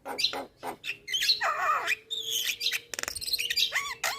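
Javan myna singing a rapid, varied string of short calls: harsh squawks, chirps and mimicked notes, with a fast clicking rattle about three seconds in and a run of repeated curving whistles near the end.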